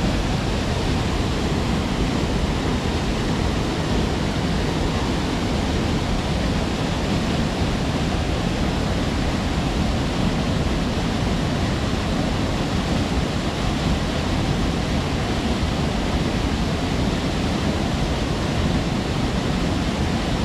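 Waterfall: falling water splashing into a pool with a steady, even rush, heaviest in the low range.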